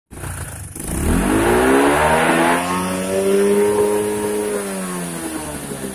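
Small motorcycle engine, fitted with a racing CDI with advanced ignition timing, revved hard with the throttle. It rises in pitch over about two seconds, holds near the top of the rev range, then falls back about five seconds in.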